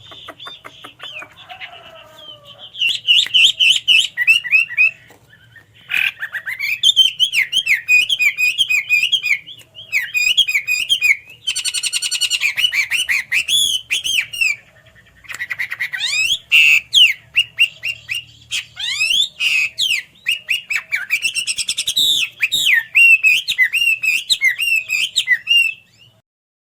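Chinese hwamei singing: loud, rapidly varied whistled and warbled phrases in runs of a few seconds, broken by short pauses, with a faint steady low hum underneath.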